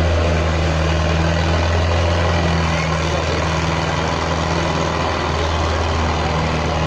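Indo Farm 3055 tractor's diesel engine running steadily under load, a deep even hum.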